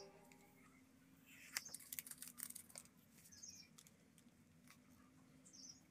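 Near silence with scattered faint clicks and light taps, bunched between about one and three seconds in, and a few short, faint high chirps.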